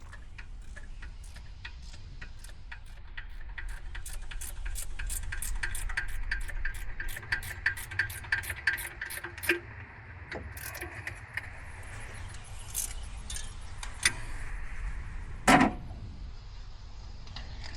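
Hand tools working on an engine: a run of rapid metallic clicks for several seconds, then scattered clinks and one louder knock near the end.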